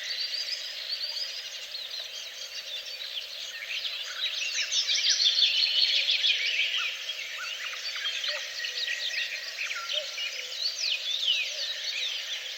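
Several songbirds singing at once, a dense chorus of quick chirps and short trills, busiest about four to seven seconds in, over a steady faint background hiss.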